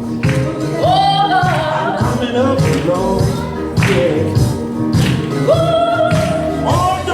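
Gospel song with a lead voice singing held, sliding notes over a steady beat.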